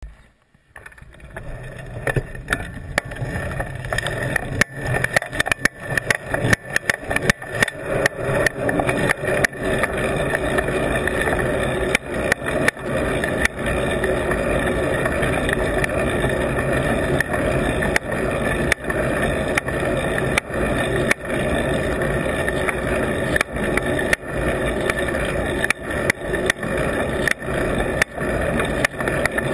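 Bicycle riding along, heard through a camera on an adhesive mount on the bike: a steady rumble of tyres and wind, broken by frequent sharp knocks and rattles.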